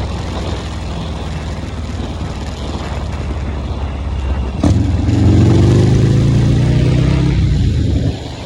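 Harley-Davidson motorcycle's V-twin engine running at a low rumble, then suddenly revved hard about halfway through. The engine holds the high revs for about three seconds before dropping back.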